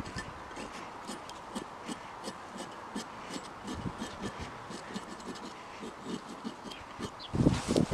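Hand work on small metal tool parts: irregular light clicks, taps and scratching, with a cluster of louder knocks near the end.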